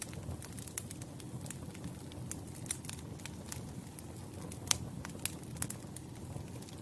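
Wood campfire burning: a low steady rumble of flames with frequent sharp, irregular crackles and pops of the logs, one louder pop about two-thirds of the way through.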